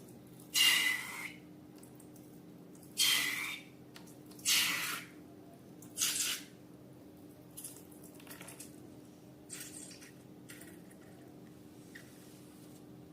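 Slime being squeezed and stretched by hand: a series of short, wet squelches, four louder ones in the first six seconds, then fainter ones spaced out.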